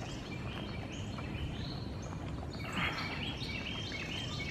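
Songbirds calling, including a tufted titmouse's short whistled notes repeated over and over, over a steady low outdoor rumble.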